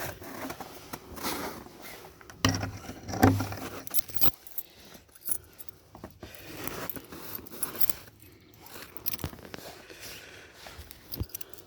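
A bunch of keys jangling and clicking at a shed lock, with a few louder clinks about three seconds in; the lock will not open, which the owner puts down to frost.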